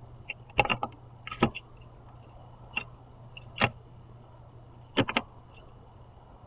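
Irregular sharp taps and knocks of birds pecking at seed on a platform feeder, about six in a few seconds, over a steady low hum.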